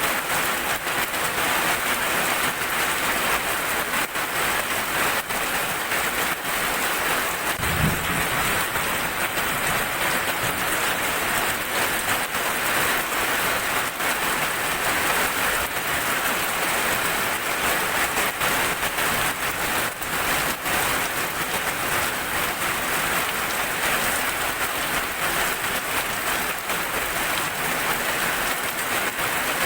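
Steady heavy rain falling, with many fine drop ticks on a hard surface. A single brief low thump about eight seconds in.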